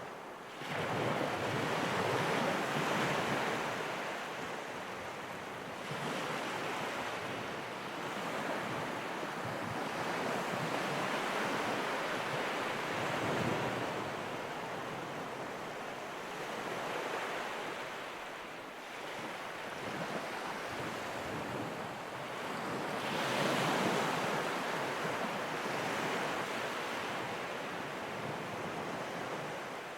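Ocean surf, waves breaking and washing in, the rush swelling and fading every few seconds.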